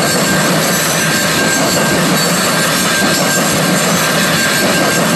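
Freight train boxcars rolling past on the rails: a steady noise of wheels on track, with a thin steady high tone running through it.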